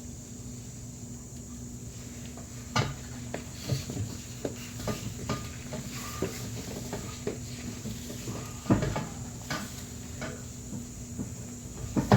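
Metal clinks and knocks as a 2000 Toyota Celica GT's muffler and exhaust pipe are pushed and worked into place under the car. The irregular hits start about three seconds in, and the loudest come near the end. A steady low hum runs underneath.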